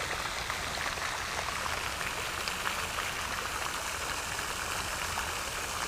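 Steady splashing of a pond fountain, water falling back onto the surface in an even patter.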